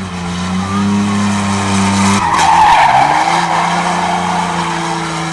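Stock-car racing truck engines running at the track as a steady drone. About two seconds in, the pitch drops and a louder rush of engine and tyre noise swells and fades before the drone settles again.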